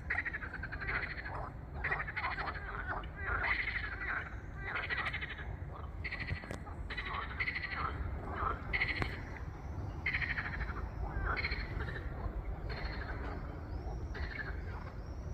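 A chorus of frogs croaking, many overlapping rattling calls of about half a second each, one after another, over a steady low rumble.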